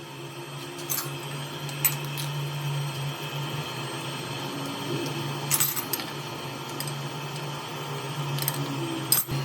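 A few sharp metallic clicks and clinks of hand tools, spread out over several seconds, over a steady low hum.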